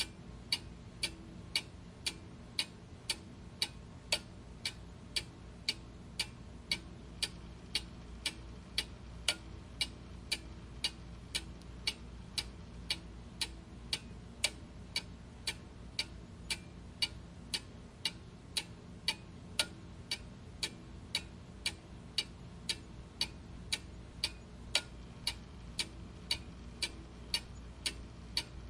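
Clock ticking steadily, about two even ticks a second, over a faint low background hum.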